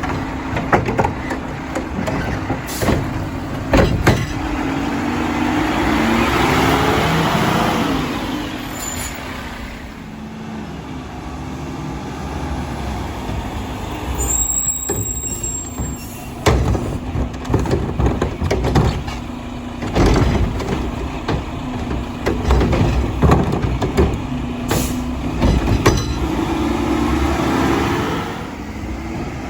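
Mack LR garbage truck with a Curotto Can arm working a route: the engine revs up and down as the hydraulics run, the air brakes hiss, and a string of clanks and thumps comes from carts being lifted and dumped.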